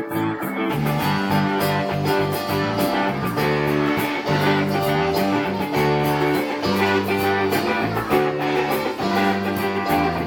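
Guitars strumming a lively rhythm with a bass line underneath, played as church music.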